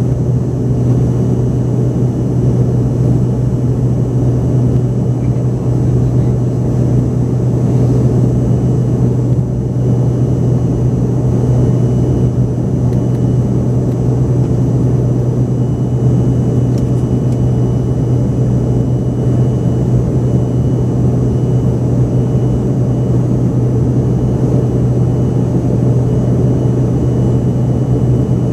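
Steady cabin roar of an Embraer ERJ-145XR's rear-mounted Rolls-Royce AE3007 turbofans running at power, heard inside the passenger cabin. It is a strong low drone with a faint high engine whine above it, unchanging throughout.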